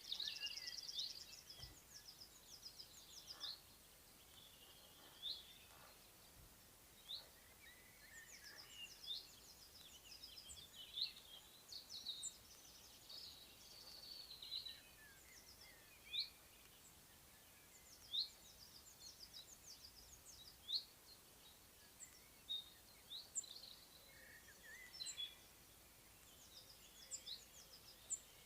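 Faint chorus of several songbirds: scattered short chirps and quick rising whistled notes every second or two, with a fast trill right at the start, over a low steady outdoor hiss.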